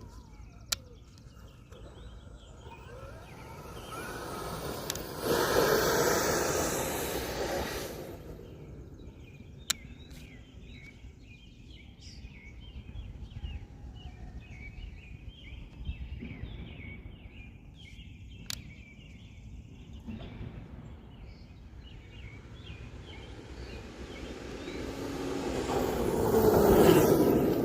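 A 1/5-scale RC jet truck with twin 120 mm electric ducted fans passes twice: its rushing fan noise swells and fades about five seconds in, then builds to a louder peak near the end. Birds chirp between the passes.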